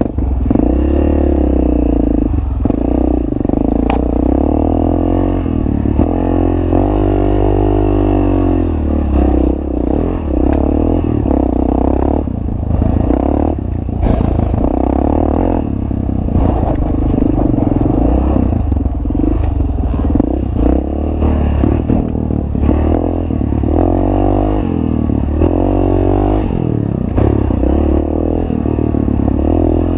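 Yamaha TT-R 600's single-cylinder four-stroke engine running hard under the rider, its revs rising and falling again and again as the bike accelerates and backs off over the dirt.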